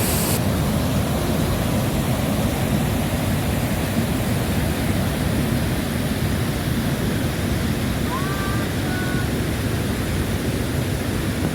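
Steady rush of water pouring over the rock rapids of a jungle waterfall, with a couple of short chirps about two-thirds of the way through.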